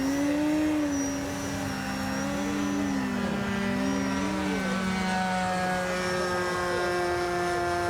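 Electric motor and propeller of a Flex Innovations Mamba 10 G2 RC aerobatic plane in flight, a droning whine whose pitch rises and falls with the throttle for the first few seconds, then holds a steady lower note.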